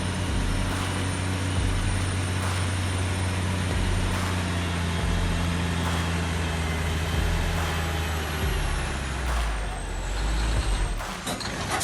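Heavy truck engine running steadily, then easing off about ten seconds in, with a few sharp knocks near the end.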